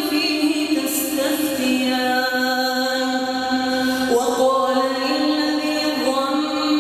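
Melodic Quran recitation by a single voice, chanting in long drawn-out held notes that step between pitches, with a brief break about four seconds in and a step up to a higher note soon after.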